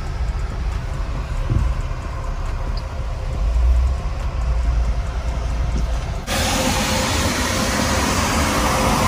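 Low car engine rumble heard from inside a car's cabin as other cars move past, swelling briefly about halfway through. About six seconds in, a steady hiss comes in suddenly and holds.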